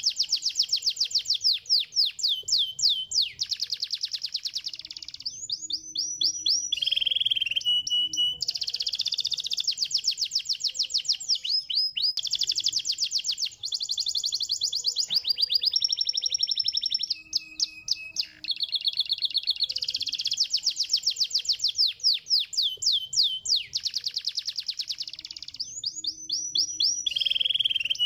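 Canary singing a long, high-pitched song of fast trills and rolls, switching to a new phrase every second or two with brief pauses in between.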